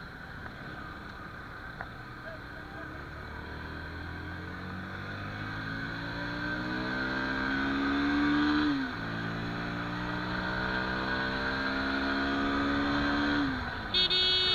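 Bajaj Pulsar NS160 motorcycle engine accelerating from low speed, its pitch climbing steadily, dropping sharply at an upshift about halfway through, then climbing again and easing off near the end. A vehicle horn toots right at the end.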